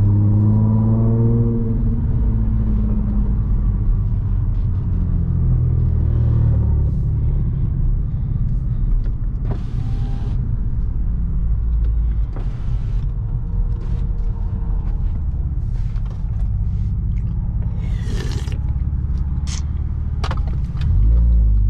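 Audi S4's supercharged V6 running under way, a steady low drone with road rumble. The engine note rises and falls in the first couple of seconds, and a few brief rushing swells come and go later.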